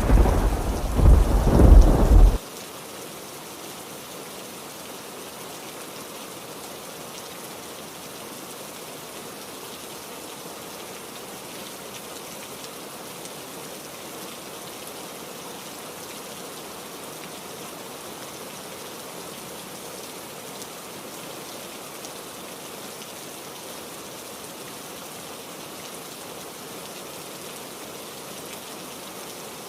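A loud crack of thunder that cuts off abruptly about two seconds in, then steady heavy rain.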